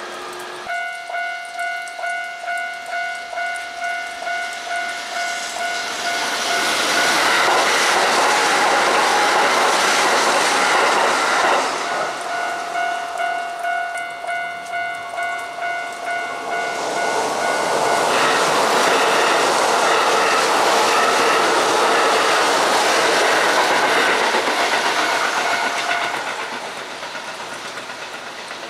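A railway level-crossing alarm rings in a pulsing electronic tone, about two strikes a second. Two electric trains on the Kintetsu Osaka Line pass one after the other, their wheel and running noise swelling over the alarm. The alarm breaks off briefly between the trains and stops during the second pass, then the second train's noise fades away near the end.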